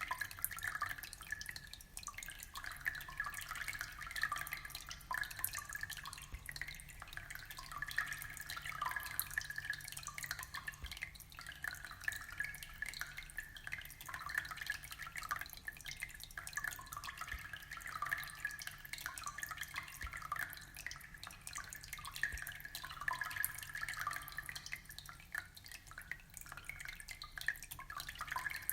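Aquarium water trickling steadily, a continuous stream of small drips and splashes.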